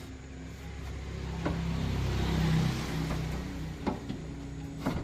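Engine starting up and running, revving up to a peak about halfway through and easing back, with a few sharp clicks.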